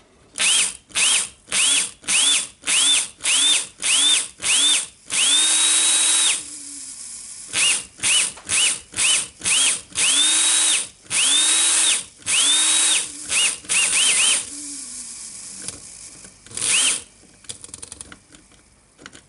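A small electric power-tool motor triggered on and off in quick pulses, each a short whine rising in pitch. A few longer runs of about a second hold a steady high whine, with one last pulse near the end.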